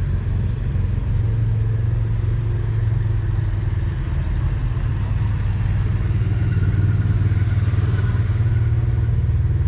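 Heavy truck's diesel engine idling steadily, a constant low drone.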